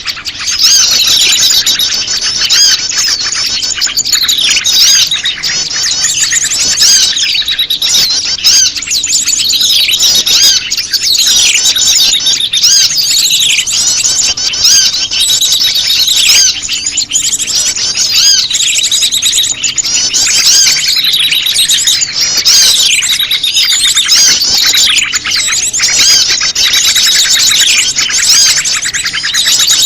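Bird-lure recording of prenjak lumut calls mixed with a dense chorus of small birds chattering: many overlapping rapid high chirps and short falling whistles, going on without a break.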